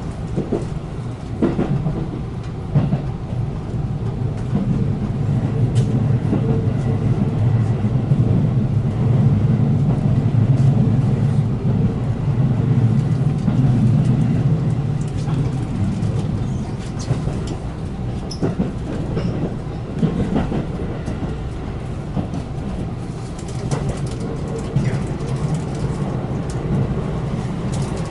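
Electric passenger train running on the Iida Line: a steady low rumble that builds for several seconds and then eases off, with scattered sharp clicks from the running gear on the track.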